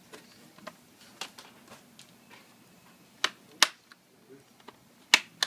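Snap-in clips of a Samsung Series 7 laptop's bottom case clicking as they release while the case is pried off: a string of about eight sharp clicks, the loudest pair a little past the middle and another pair near the end.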